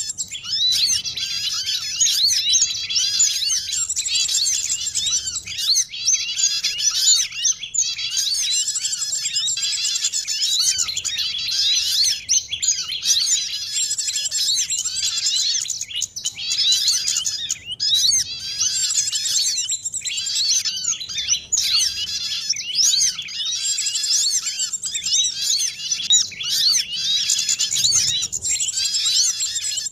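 A dense, busy chorus of many small songbirds chirping and twittering at once, rapid overlapping high calls with no pause, as played from a bird-lure recording to draw in small birds.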